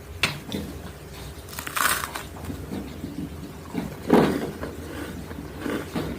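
Close-miked crunching of biscuits being bitten and chewed, in several separate crunches, the loudest about four seconds in.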